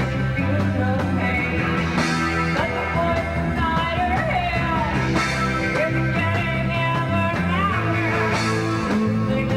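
Rock band playing live: electric guitar and bass over drums, with a gliding melodic line above them.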